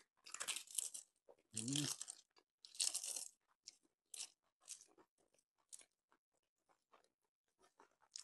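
Close-miked crunching and chewing of crisp fried papad: three loud crunchy bites in the first three seconds, then quieter chewing and small clicks.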